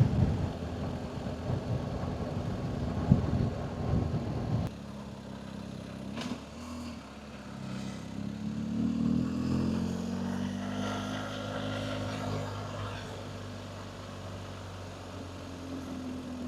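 Vehicle engine running with road noise. About four and a half seconds in the sound changes abruptly, and after that a steadier engine note rises and falls.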